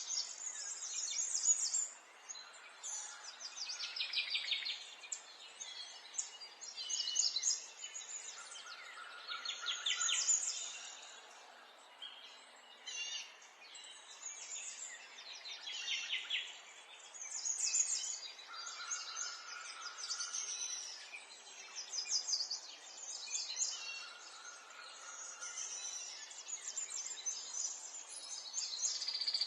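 Songbirds chirping and singing, with fast high trills every few seconds and, now and then, a short, lower steady whistle, over a faint steady outdoor hiss.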